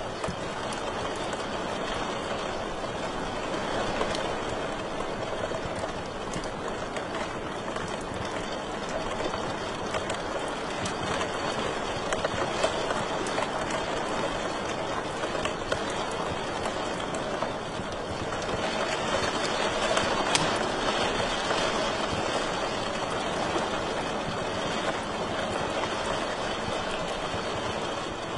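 Wood fire crackling in a fireplace: a steady hiss with scattered sharp pops, swelling a little twice, the second time past the middle.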